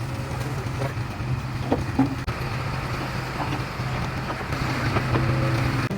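Heavy diesel engine of construction machinery running steadily, with scattered knocks and clicks over the drone.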